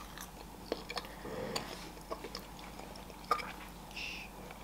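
Close-miked chewing of a soft glazed curd cheese bar coated in white chocolate: quiet wet mouth sounds with small clicks. A short "shh" about four seconds in.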